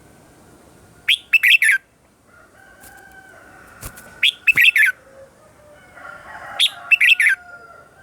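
Red-whiskered bulbul singing three short, quick phrases a few seconds apart, with fainter bird calls in the background and a couple of sharp clicks near the middle.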